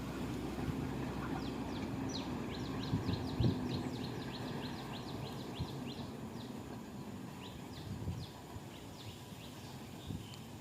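A bird calls a quick run of short, falling chirps, about five a second, which thin out after a few seconds. Underneath is a low rumble that fades away about eight seconds in, with a single thump a few seconds in.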